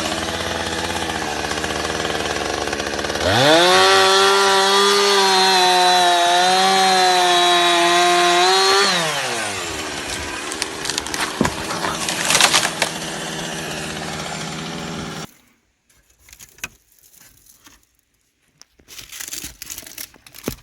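Two-stroke chainsaw idling, revved hard for about six seconds with slight dips in pitch, then dropping back to idle before it cuts off suddenly about fifteen seconds in. Light rustling and clicks follow.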